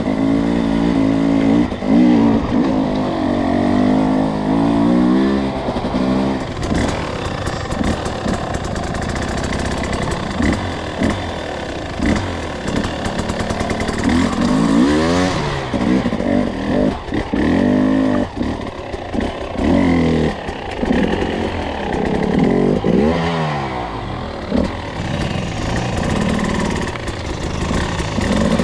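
Two-stroke enduro dirt bike engine being ridden, its note rising and falling over and over as the throttle is opened and shut, with rattling clatter through the middle stretch.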